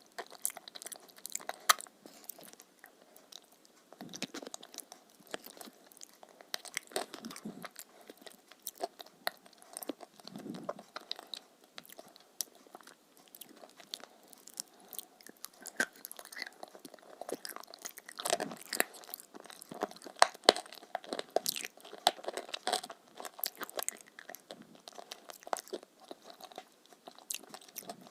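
A person biting and chewing crunchy food close to the microphone: irregular sharp crunches and crackles with softer, wetter chewing between them.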